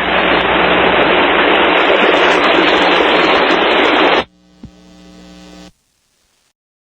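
Radio static: a steady hiss for about four seconds that cuts off abruptly, leaving a faint hum that stops about a second and a half later.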